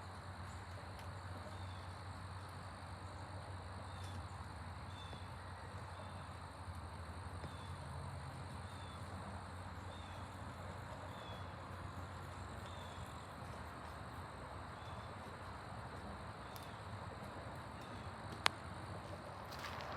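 Quiet outdoor ambience with insects chirping: short, faint high chirps repeating about once or twice a second over a steady hiss. A single sharp click comes near the end.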